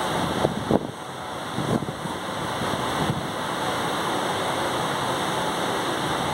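Steady rush of wind and running noise from a moving train, heard through an open window, with a few dull knocks in the first three seconds.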